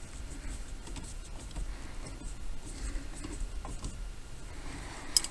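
Faint rubbing and light clicks of hands fitting a clock spring and small parts onto a steering column, with a sharper click near the end, over a low steady hum.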